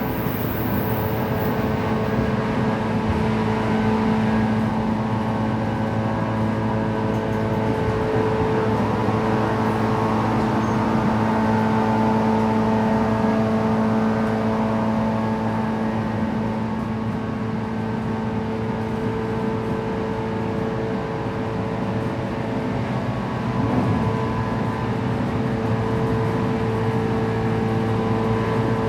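Running sound heard from inside a JR West 117-series electric train cruising at about 110 km/h. The traction motors and gears hum steadily with several held tones over a constant rumble from the wheels and rails.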